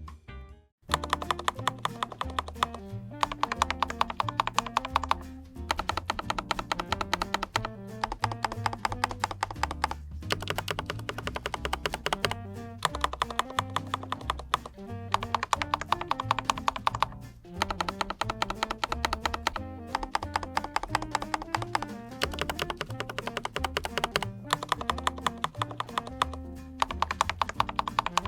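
Fast, continuous typing on a mechanical keyboard with Autumn Rain switches and PBT double-shot keycaps, a dense run of key clicks that starts about a second in, over background music with a stepping bass line.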